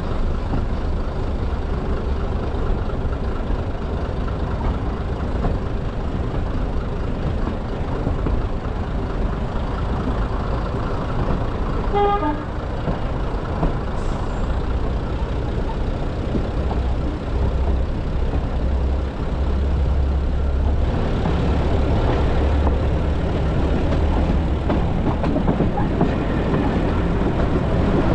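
Diesel-hauled heritage train heard from a carriage window: a steady low rumble of engine and wheels on the track, with a brief horn toot about twelve seconds in. The rumble grows louder in the last third as another diesel train approaches on the neighbouring track.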